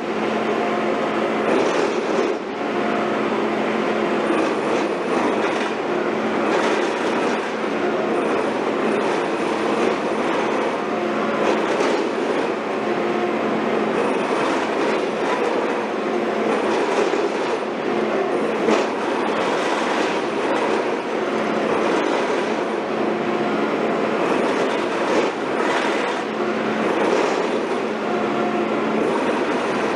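Heavy construction machinery running steadily: a constant engine hum with scattered short metallic knocks.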